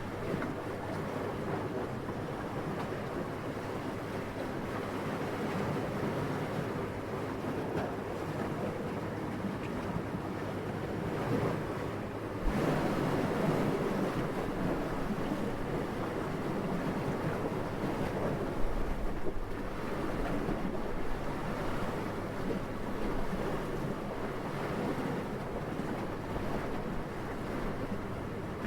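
Steady wind noise, a soft rushing with no distinct events. About twelve seconds in it swells into a louder gust, which eases only slightly afterwards.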